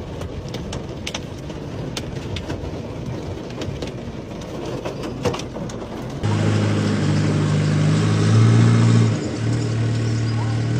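Hailstones falling and striking hard surfaces, an even noise with many scattered sharp hits; about six seconds in the sound switches abruptly to a louder steady low hum of a vehicle engine running.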